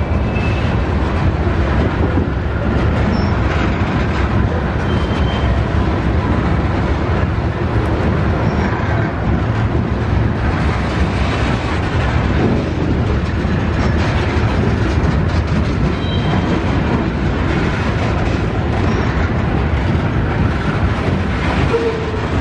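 BNSF freight train's cars rolling past on the rails, a steady loud rumble with a few faint, brief wheel squeals.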